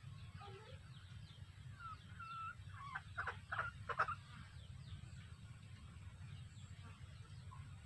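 Birds calling, with a short clear note about two seconds in and then a run of four short harsh calls about three to four seconds in, over a steady low background rumble.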